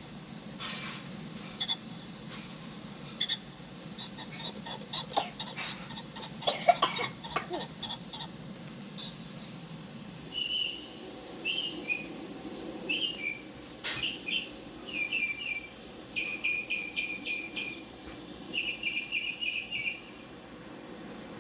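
Birds calling: scattered sharp calls and clicks with a loud, harsh burst about six and a half seconds in, then, from about halfway, short chirps repeated in quick runs.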